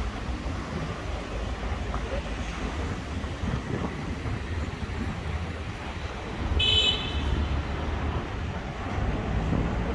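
Steady rumble of street traffic. About two-thirds of the way in there is one short, high-pitched beep, a vehicle toot.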